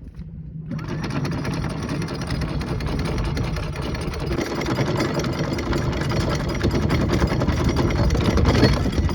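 A boat's outboard engines running, with a dense rushing noise that comes in suddenly under a second in and grows slowly louder.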